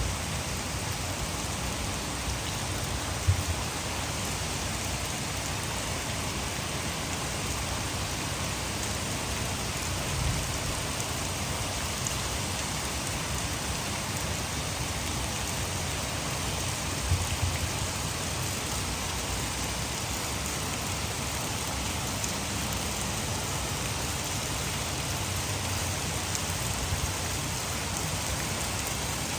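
Heavy rain falling steadily: a dense, even hiss of drops on surfaces, with a few brief low knocks scattered through it.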